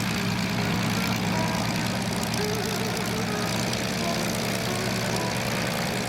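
Propeller airplane's piston engine running at a steady drone, with no rise or fall in pitch.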